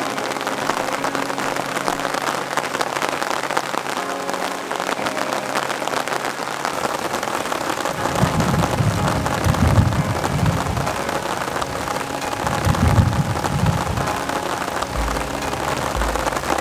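Heavy rain falling steadily, with two low rolls of thunder rumbling, the first about eight seconds in and the second about four seconds later.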